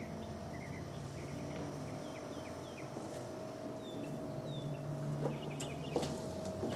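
Small birds chirping in short, quick calls over a faint steady hum, with a few light taps near the end.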